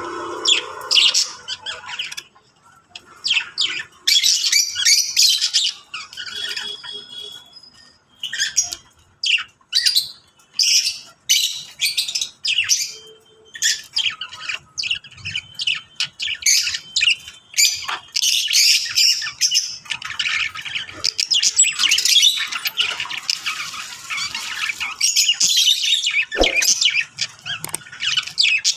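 Small pet birds chirping and squawking: many short, high calls, thickening into continuous chatter in the second half.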